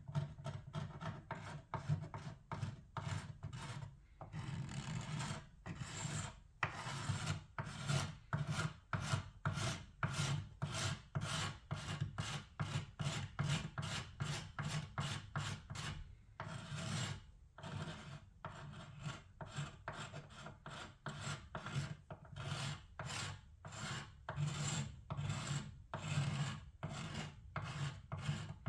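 Old paint and finish being worked off wood by hand, with rapid back-and-forth rasping strokes about two to three a second. A couple of longer, unbroken strokes come about four seconds in and again about sixteen seconds in.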